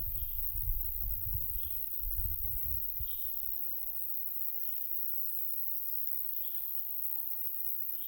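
Light wind buffeting the microphone with low rumbling gusts that die down about three seconds in. Over it, a short high call repeats about every second and a half against a steady high hiss of summer insects and birds in the open countryside.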